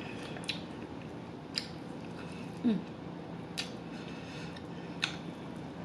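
Close-miked crunching and chewing of extra crispy fried chicken: four sharp crunches spaced a second or more apart, with a short hummed 'mm' near the middle.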